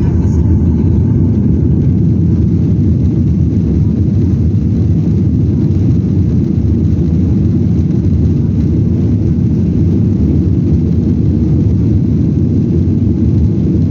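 Boeing 737-800 cabin during the takeoff run: the CFM56 jet engines at takeoff thrust and the rushing air make a loud, steady, low rumble.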